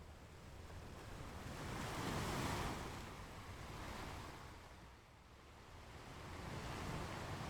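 Ocean waves washing onto a beach. One wave swells to a peak about two seconds in and dies away, and the next builds near the end.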